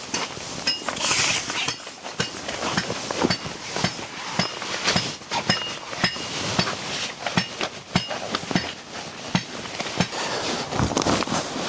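Irregular knocking and clicking, about two to three sharp strokes a second, some with a brief metallic clink.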